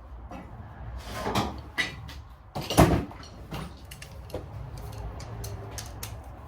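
Metal hand tools clanking and knocking as they are handled, a scattered run of sharp knocks with the loudest about three seconds in, over a low steady hum. The handling comes as a bigger wrench is got for breaking loose the engine's torqued 12 mm head bolts.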